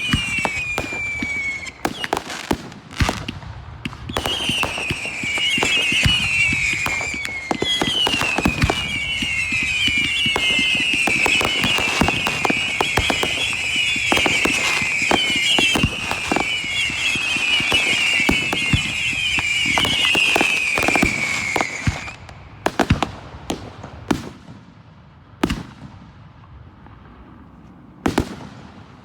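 Fireworks display: many overlapping whistles, each falling in pitch, over a steady stream of pops and bangs. After about twenty-two seconds the whistling stops and only a few scattered bangs are left.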